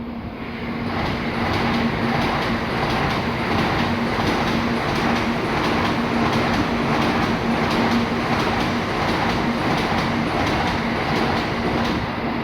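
Tokaido Shinkansen train running alongside the platform: a loud rushing rumble that builds over the first second or two and then holds steady, with a faint regular clatter of wheels.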